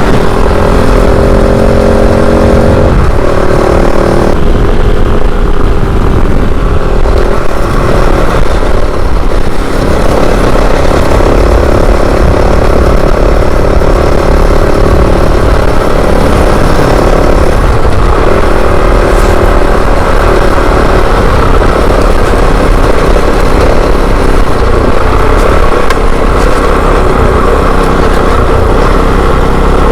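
Kove 450 Rally dual-sport motorcycle's single-cylinder engine running under way, its pitch shifting up and down with throttle and gear changes, over a heavy low rumble of wind and road noise.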